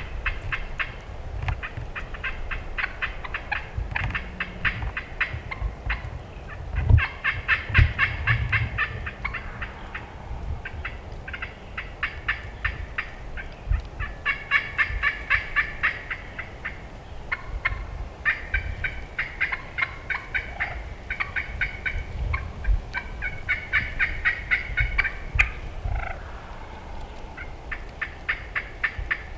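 Wild turkey gobbling over and over: a string of rapid rattling bursts, one after another with hardly a break, over a low rumble.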